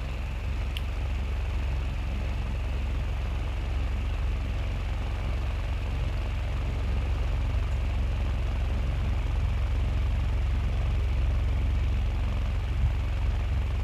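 Small battery-powered motor of a homemade cardboard fan running steadily: a low hum with a faint higher whine above it.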